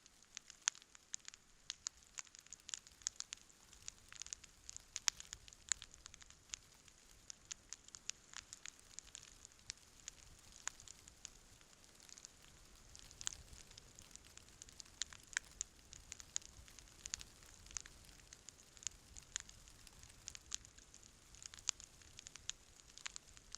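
Wood campfire crackling, with frequent irregular sharp pops and snaps over a soft steady hiss.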